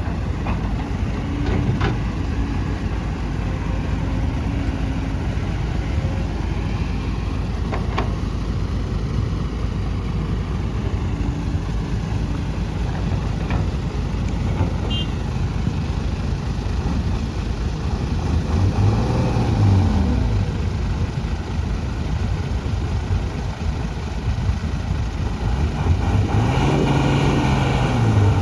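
Diesel engine of a loaded soil-hauling dump truck running under load, with the engine note rising and falling twice in the later part as it revs.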